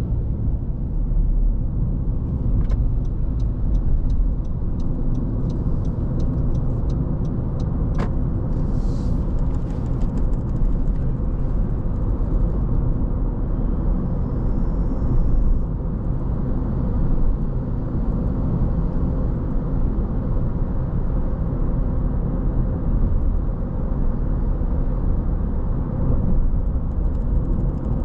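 A car driving at steady speed, with a constant low rumble of tyres and engine. A run of quick, evenly spaced ticks comes for several seconds near the start, with one sharper click about eight seconds in.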